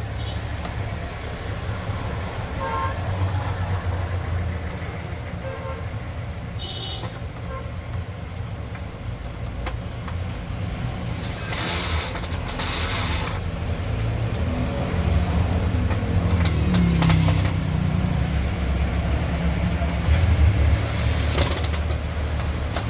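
Low rumble of passing vehicle traffic, with two short hissing bursts near the middle.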